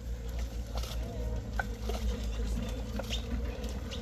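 Hands groping in shallow muddy water: scattered small splashes, squelches and clicks over a steady low rumble.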